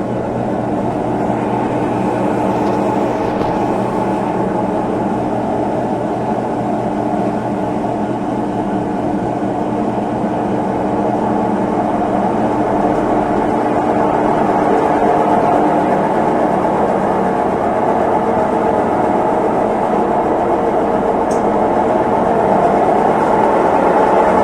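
Consul Facilite 11 kg (CWG11) washing machine in its final spin cycle: a steady whirring hum of the motor and spinning drum, slowly growing a little louder.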